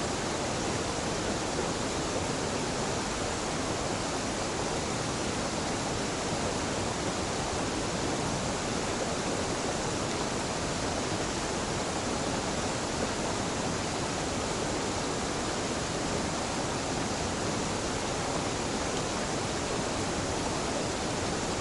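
Gentle mountain waterfall at a stream confluence, water pouring and splashing in a steady, unbroken rush.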